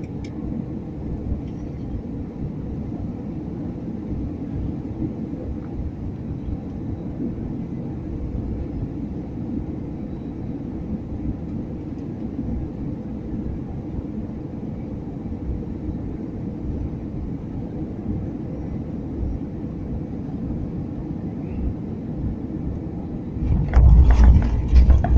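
Steady low rumble of an airliner in flight on approach. Near the end it turns suddenly much louder, with a heavy rumble and rattle, typical of the wheels touching down on the runway.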